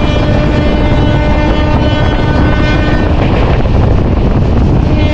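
Express train running at speed, a steady rumble with heavy wind buffeting the microphone. A steady pitched tone sounds over it for about three seconds and comes back near the end.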